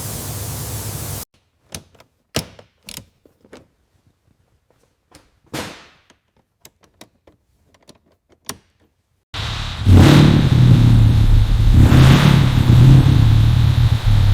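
A spraying hiss that cuts off about a second in, then several seconds of scattered small clicks and taps, like tools on metal. About nine seconds in, a car engine starts running loudly with a deep, pulsing rumble.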